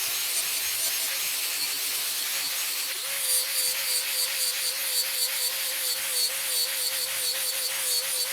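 Angle grinder fitted with a flap disc abrading wood: a steady hiss of sanding over the motor's whine. About three seconds in, the whine drops a little in pitch and grows stronger, and the grinding takes on a quick, regular rasping pulse.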